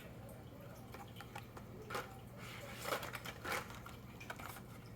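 Faint handling noises as a toy car in its package is moved about: a few soft clicks and rustles about two, three and three and a half seconds in, over a low steady hum.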